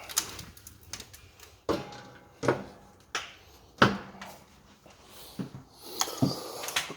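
A series of sharp metallic knocks and clanks, about one every second, some with a short ring, typical of the doors and dampers of a cast-iron stove being worked.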